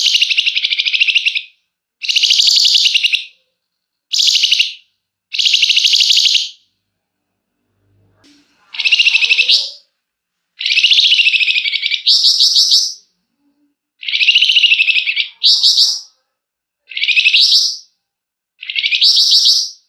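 Flamboyan songbird giving a series of harsh, rapid rattling calls (ngebren), about eleven bursts of roughly a second each with short pauses between them, some sweeping up in pitch at the end.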